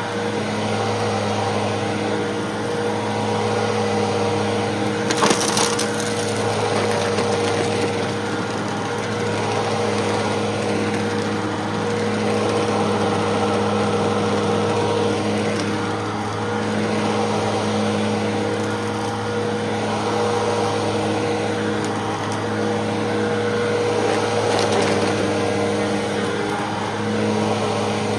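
Fantom Fury 10-amp upright vacuum cleaner running steadily, its motor and brush roller giving a constant hum, with a brief crackle about five seconds in.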